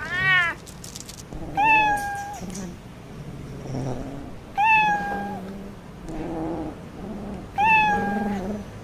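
Cat meowing repeatedly: four loud meows about every three seconds, with softer calls in between.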